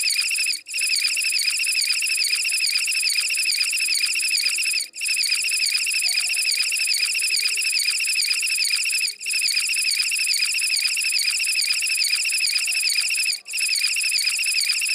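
A shrill, high-pitched electronic trill with a fast pulsing flutter, like a cricket, played as a loop that restarts about every four seconds with a brief gap each time.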